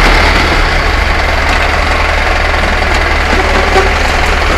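A vehicle's engine running steadily, with a low hum and the rushing noise of the vehicle on the move.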